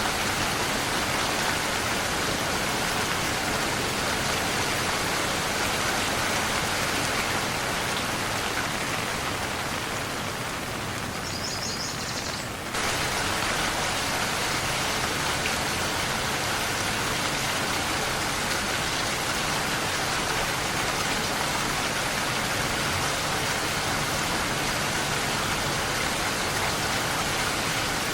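Steady rain falling, an even hiss. A little under halfway it briefly softens and dulls, then returns abruptly to full strength.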